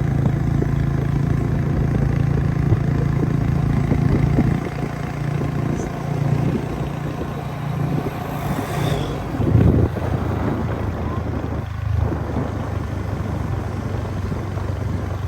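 A vehicle engine running steadily under a haze of road noise; its low hum drops in pitch about nine and a half seconds in.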